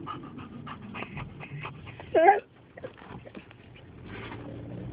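Excited dogs whining and panting rapidly, with one loud rising-and-falling whine about two seconds in.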